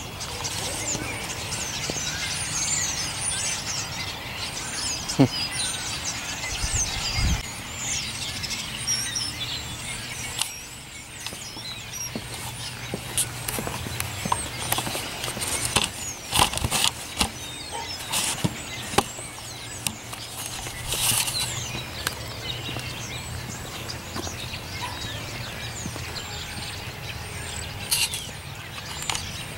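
A large flock of birds chirping and chattering all at once, a dense continuous mass of high calls, busiest in the first ten seconds, with louder sharp calls standing out now and then. A low steady hum runs underneath.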